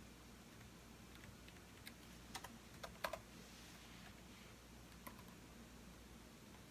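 Computer keyboard being typed on in short, sparse runs: a few keystroke clicks about two seconds in, the loudest around three seconds in, and one more near five seconds, over faint room hiss.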